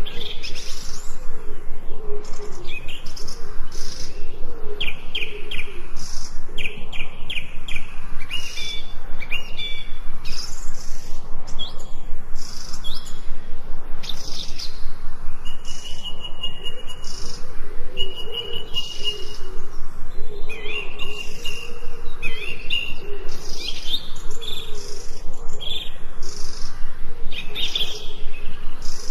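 Several forest songbirds chirping and singing at once, with overlapping quick chirps and trills throughout and a few longer whistled notes about halfway through.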